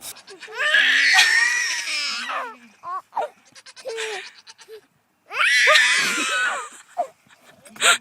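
Goat bleating: two long, wavering, high calls, the first about half a second in and the second about five seconds in, with short shorter sounds between.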